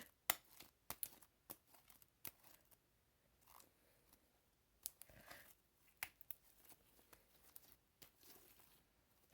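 Faint sticky clicks and crackles of slime being stretched, pressed and pulled apart by hand, coming at irregular intervals with short quiet gaps.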